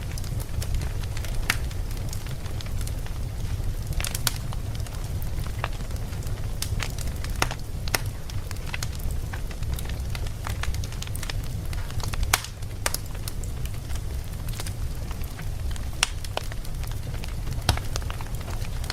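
Burning wood in a campfire, crackling and popping. The sharp, irregular pops come several times a second over a steady low rumble.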